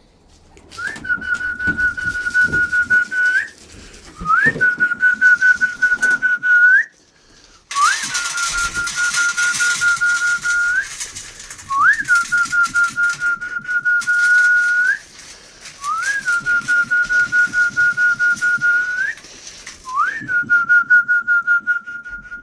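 A pigeon keeper's whistled feeding call, repeated six times: each note swoops up quickly, holds a warbling tone for two to three seconds and ends with a short upward flick. It is the call he is training his homing pigeons to come down and eat to. A rushing hiss sounds under the third note.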